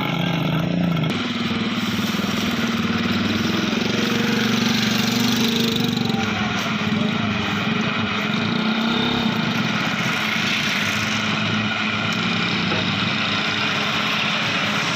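Belarus 510 tractor's diesel engine running steadily, its speed picking up about a second in and then holding even.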